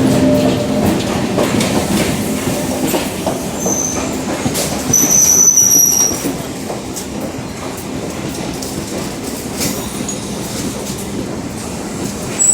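A MEMU electric multiple-unit train pulling into the station, its wheels rumbling and clattering over the rails. High-pitched wheel squeals come briefly about four seconds in and again, louder, at five to six seconds.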